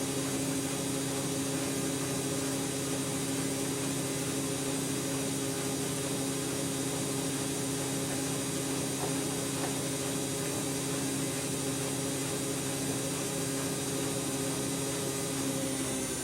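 Siemens Siwamat iQ 716 washing machine running at a steady high speed, its motor giving an even whine with a hiss. Right at the end the whine starts to drop in pitch as the machine slows.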